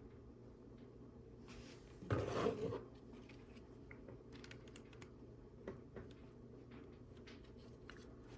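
Small plastic LEGO pieces clicking and tapping as they are handled and pressed onto the build, with a short louder rustle about two seconds in.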